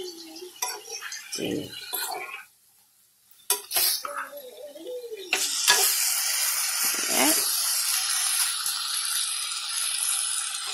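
A metal spoon clinks and scrapes against a pot as diced chicken is stirred. About halfway through, a steady sizzle of the chicken frying takes over.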